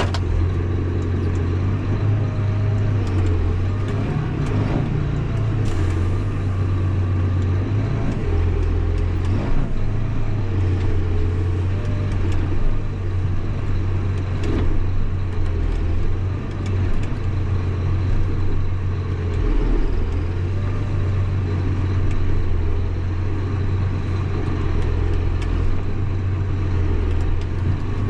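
Tractor diesel engine running steadily, heard from the cab, its low note shifting slightly and dipping briefly a couple of times as the load changes while blading snow.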